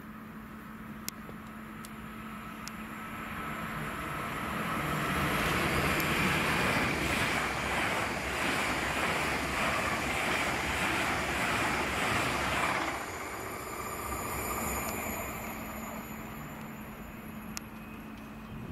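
Green Great Western Railway passenger train running through the station at speed. The rush of wheels on rail builds over a few seconds, stays loud for about seven seconds as the coaches go by, drops off sharply as the last coach passes, then fades away.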